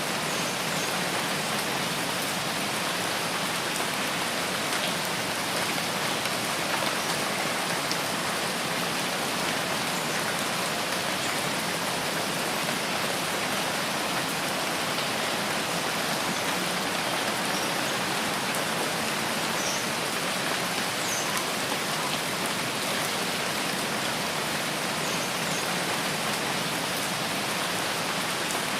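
Steady rain falling in a rainforest, an even, unbroken hiss of drops. A few faint high chirps sound near the middle.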